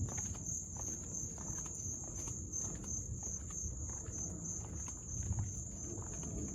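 Footsteps walking at an even pace, with a steady high-pitched insect drone behind them.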